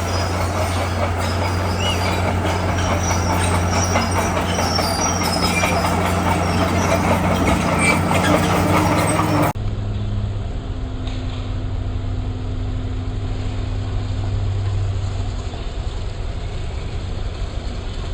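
Komatsu bulldozer's diesel engine running under load, with a dense clatter of steel tracks and rock being pushed. About nine and a half seconds in, the sound cuts abruptly to a duller, quieter engine drone without the clatter.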